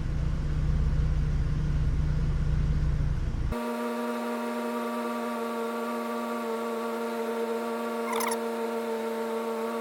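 2006 Hummer H3's engine idling with a steady low rumble; the truck has a rough-idle and stalling complaint and its MAF sensor is over-reporting. About a third of the way in the sound changes abruptly to a thinner steady hum of even tones with the low rumble gone.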